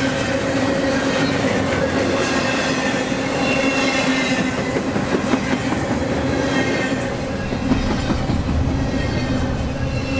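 BNSF train cars rolling past close by, with a dense steady rumble of wheels on rail, occasional sharp clicks and a few steady high squealing tones from the wheels.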